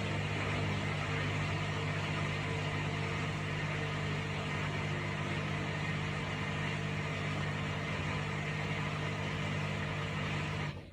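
Haier HW90-BP14636 front-loading washing machine running with a steady hum made of several low tones, which cuts off suddenly near the end.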